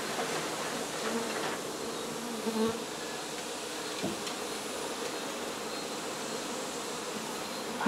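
Mass of honey bees buzzing steadily around an exposed hive being opened up, a continuous low droning hum.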